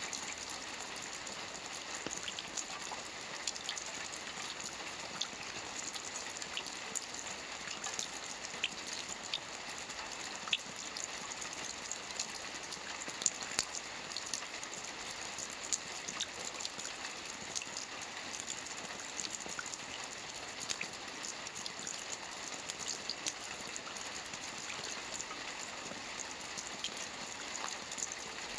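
Steady light rain falling on a roof: a soft even hiss with many small drops ticking sharply here and there.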